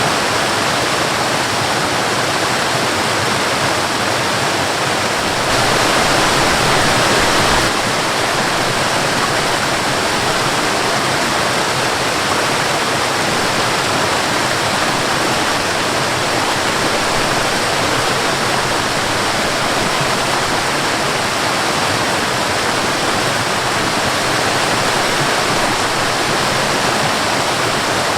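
Waterfall and rushing river water, a steady loud rush that swells briefly about six seconds in.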